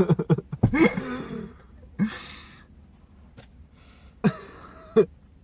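A man's voice making nonsense vocal noises: a choppy, throaty warble at first, then three short coughing bursts spaced well apart.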